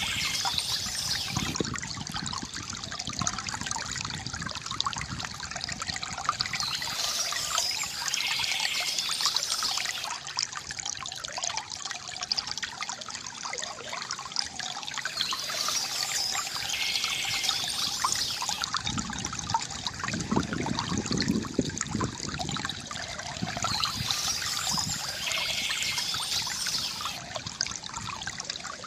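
Stream water trickling steadily, with bursts of birdsong that come back about every eight and a half seconds.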